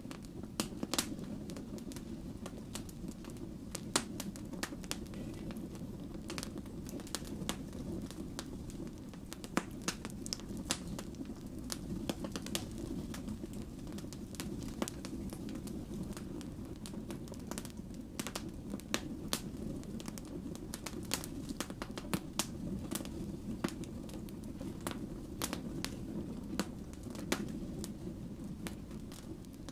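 Wood fire burning, its logs crackling and popping in sharp, irregular snaps over a steady low rumble of flame.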